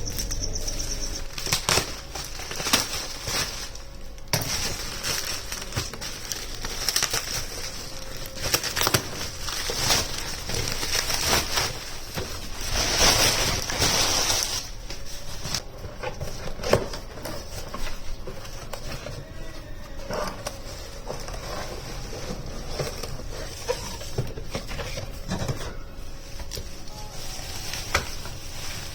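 Kitchen handling sounds: irregular clicks and knocks with rustling, and a louder noisy stretch about halfway through.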